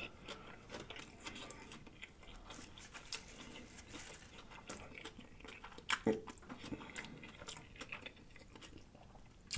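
A person chewing a big mouthful of food up close, with many small wet mouth clicks. A louder bite or chew comes about six seconds in.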